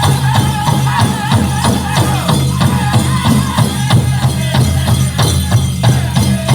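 Powwow drum group singing a chicken dance contest song over a big drum struck in a steady, fast beat, with a rattling, jingling layer on top.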